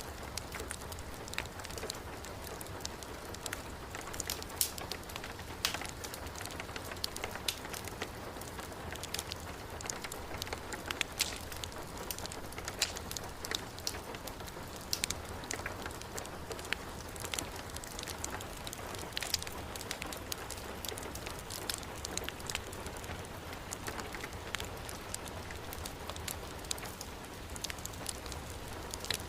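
Steady heavy rain with the scattered crackles and pops of a burning wood fire.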